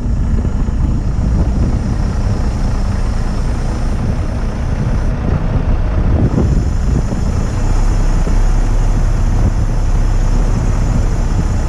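Truck diesel engine running steadily, a heavy low rumble, with strong wind buffeting the microphone.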